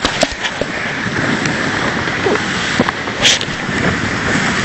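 Dog sled sliding fast down a steep slope: a steady rush of the runners over snow, mixed with wind on the microphone. A few short knocks come through over it.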